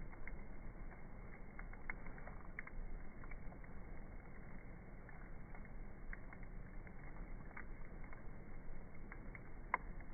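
Campfire crackling: a steady low hiss with scattered irregular pops, and one sharper crack near the end.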